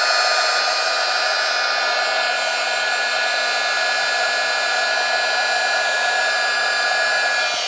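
A handheld electric dryer runs steadily, a rushing blow with a constant whine, drying wet stencilled paint on paper. It cuts off at the very end.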